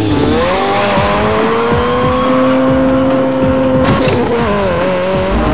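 Demolition derby car engine revving hard. It climbs in pitch at the start, is held at high revs for about three seconds, then drops back and wavers about four seconds in, over the rumble of other engines.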